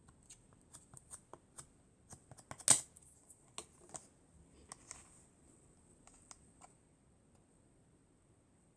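Slime being pressed and worked by hand, giving an irregular run of small crisp clicks and pops, one much louder pop about two and a half seconds in.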